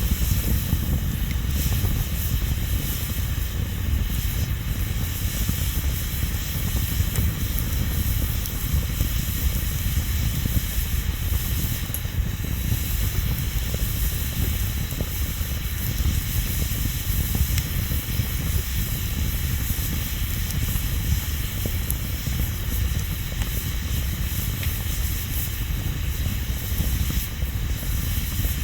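Bonfire burning steadily, a continuous hiss over a low rumble, with a few faint crackles.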